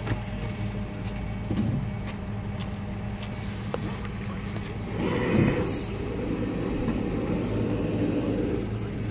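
Vehicle engine idling steadily, growing louder and rougher from about five seconds in.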